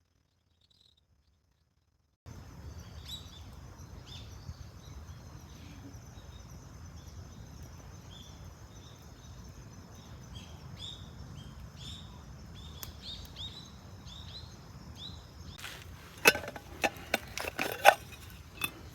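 After a couple of seconds of silence, outdoor ambience comes in: a small bird chirping in short calls repeated every half second or so over a steady faint hiss. In the last few seconds come a run of sharp clinks and knocks, the loudest sounds here.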